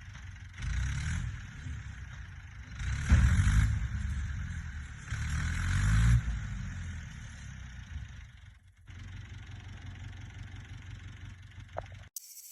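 Fordson E27N tractor's Perkins P6 six-cylinder diesel engine running, revved up and dropped back three times, then running more steadily.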